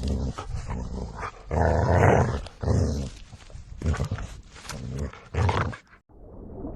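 A dog growling in a run of loud, irregular bursts, the loudest about two seconds in. The calls cut off shortly before the end, when a steady rushing noise begins.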